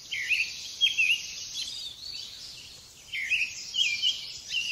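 Birds chirping over a faint outdoor hiss: short sweeping calls that come in two groups, one about a second in and another a little after three seconds in.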